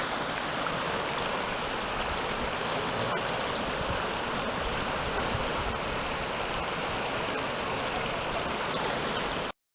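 Water of a stream running, a steady rushing that cuts off abruptly just before the end.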